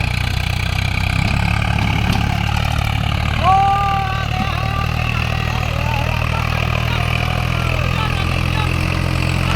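Swaraj 744 XT tractor's diesel engine running steadily, straining with a loaded trolley on a slope. A short shout cuts in about three and a half seconds in.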